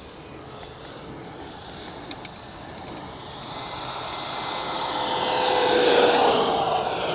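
Electric ducted fan of an FMS BAE Hawk model jet whining as it makes a low pass, growing louder from about three seconds in, loudest near six seconds, its pitch dropping as it goes by.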